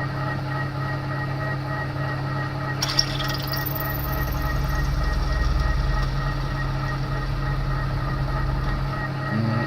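A TOS milling machine's spindle and gearbox run with a steady hum while a drill bit bores into a stainless steel exhaust stud, with a sharp crack about three seconds in. The bit is being ruined by the stainless, which the machinist takes to be work-hardened.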